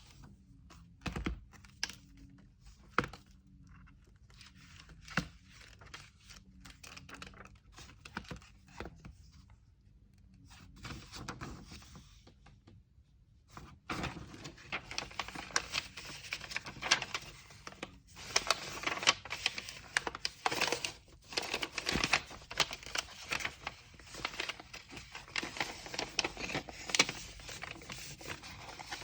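Order packing by hand: scattered taps and knocks of items being set down, then from about halfway a busy, continuous crinkling and rustling of paper wrapping with many quick ticks.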